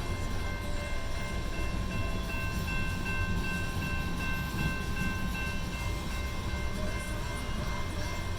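CSX freight train rolling past: a steady low rumble with a faint, steady high-pitched whine held throughout.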